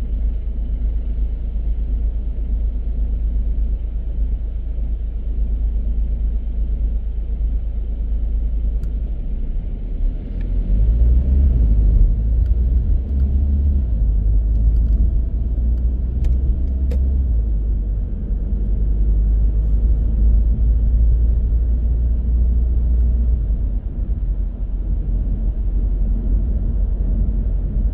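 A car driving, heard as a steady low rumble of engine and road noise. About ten seconds in it grows louder, with a rising pitch as the car accelerates, then holds at the higher level.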